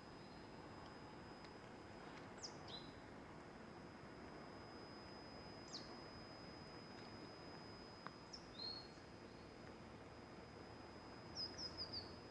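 Small songbird chirping sparsely: short, high, downward-sweeping chirps a few seconds apart, then a quick run of four or five near the end. A faint steady high-pitched tone and soft hiss lie underneath.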